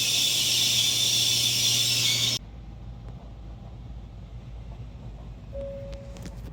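A loud, steady high hiss over a low hum that cuts off abruptly a little over two seconds in, giving way to a quieter low rumble.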